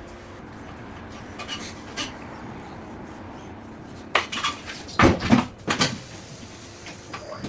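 Metal clinks and clanks of tyre-fitting work, as tools and a steel-and-alloy car wheel are handled: a few light clicks, then a cluster of louder clanks about four to six seconds in.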